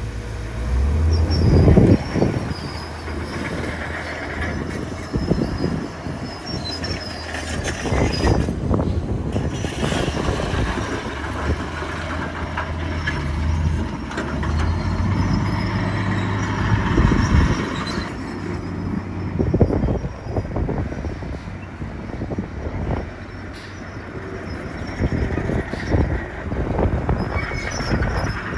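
Komatsu crawler bulldozer's diesel engine running, with repeated clanking and high squealing from its steel tracks as it moves.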